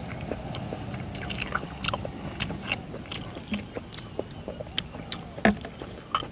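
Close-up mouth sounds of someone chewing instant noodles with mushrooms: a steady run of wet clicks, smacks and squishes, with one louder click about five and a half seconds in.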